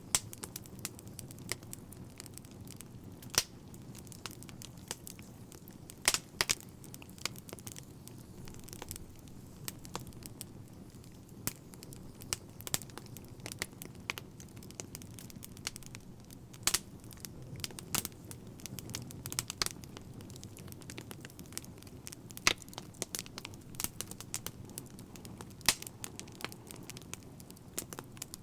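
Wood fire crackling: irregular sharp pops and snaps, a few louder ones scattered through, over a steady low rumble of the flames.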